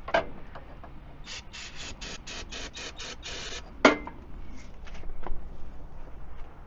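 A quick run of about a dozen short hissy pulses, about five a second for two seconds, then one sharp knock with a brief ring, between attempts to start a stalled engine.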